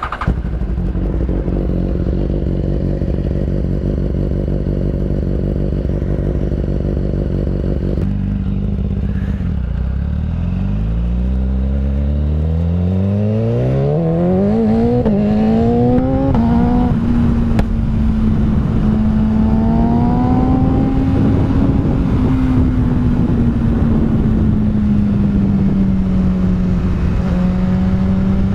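BMW S1000RR inline-four sportbike engine idling, then revving up as the bike pulls away, the pitch climbing and dropping back at several quick upshifts. It then runs at steady revs that slowly rise and fall, with a hiss of wind and road noise underneath.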